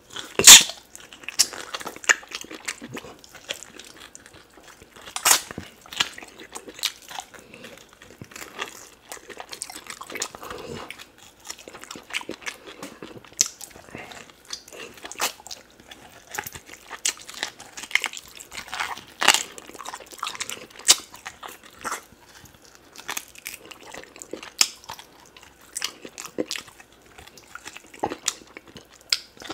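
Close-miked eating sounds: oxtail being gnawed and chewed off the bone by hand, a run of irregular crunching and wet clicking bites, the loudest about half a second in.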